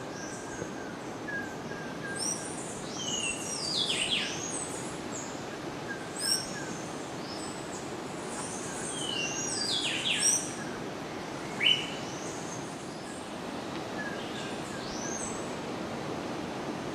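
Several birds calling in a rainforest: repeated high whistled notes that slide steeply down in pitch, with a faint row of short, lower notes beneath them, over a steady background hiss.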